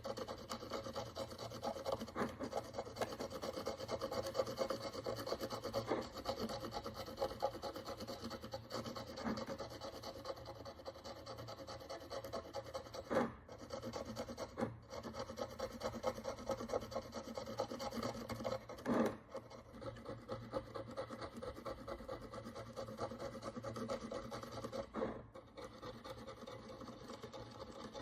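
Rapid, continuous scraping and rubbing of a hand tool against the crusted surface of an ancient Roman bronze coin, working off the dirt and oxidation, with a few louder single strokes along the way.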